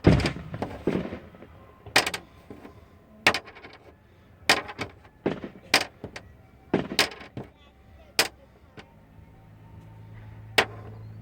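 Aerial fireworks going off: about a dozen sharp bangs at irregular intervals, some in quick clusters of two or three. A low steady hum comes in about nine seconds in.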